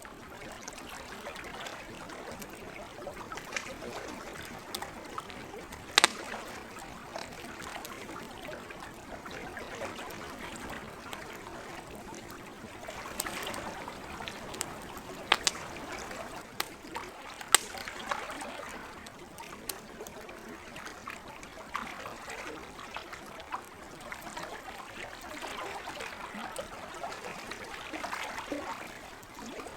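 Wood campfire crackling, with scattered sharp pops, the loudest at about six seconds and two more around fifteen and seventeen seconds, over lake water lapping and trickling gently.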